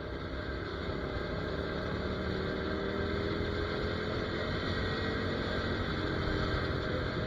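Ducati Monster 797's air-cooled L-twin engine running under way, its pitch drifting slowly, with wind rushing over the microphone.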